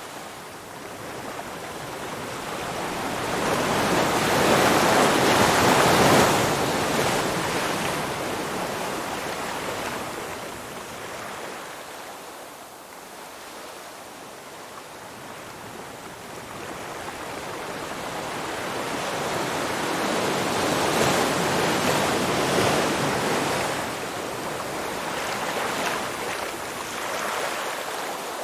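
Ocean waves washing in. The rush swells and fades twice: loudest about five seconds in, and again about twenty seconds in.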